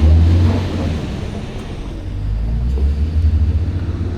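Motor vehicle engine running with a steady low rumble that swells and eases slightly.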